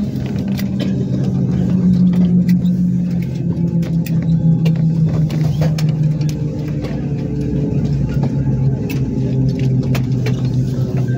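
Airbus A320 cabin noise while the airliner taxis after landing: a steady low hum from its CFM56 engines at idle, sagging slightly in pitch early on, with a few small clicks and rattles.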